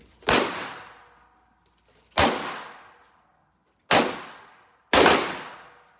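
Four gunshots at uneven intervals, each a sharp crack followed by a long fading echo.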